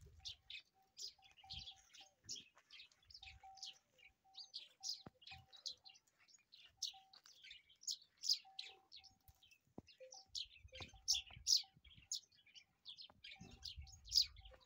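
Small birds chirping: a continuous run of short, high, downward-sweeping notes, roughly two or three a second, with a fainter broken whistle-like tone underneath.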